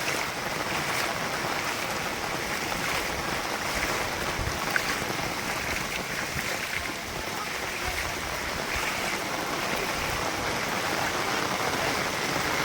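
Steady rush of water, as of rain and running rainwater, with one short sharp tick about five seconds in.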